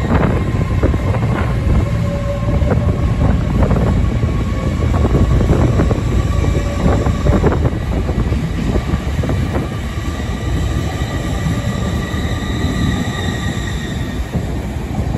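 LNER Azuma high-speed train running past along the platform: a loud rumble of wheels on rail, with repeated clicks through the first half and steady high-pitched whining tones above.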